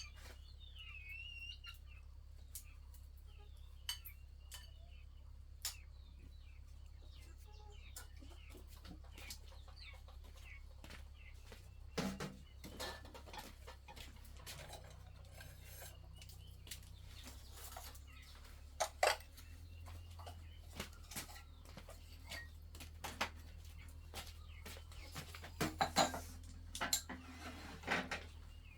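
Chickens clucking, with scattered clinks and knocks of dishes and utensils being handled. The knocks come in bunches, with the loudest ones near the end.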